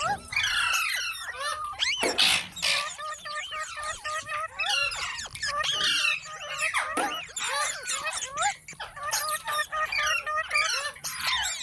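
Rose-ringed (Indian ringneck) parakeet chattering: a fast run of short, squeaky, up-and-down chirps and squawks, with a couple of harsh screechy bursts about two seconds in.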